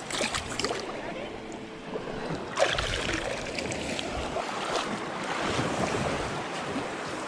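Shallow beach surf washing around the legs, with wind buffeting the microphone. There is a sudden louder hit about two and a half seconds in.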